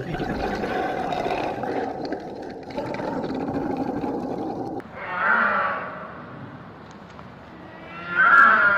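An animal calling twice, a pitched call about five seconds in and a louder, longer one near the end, over a steady noisy rumble that stops about five seconds in.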